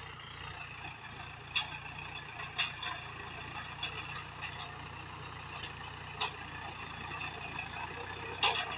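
Mahindra 415 DI XP Plus tractor's diesel engine running steadily, with a few sharp knocks scattered through.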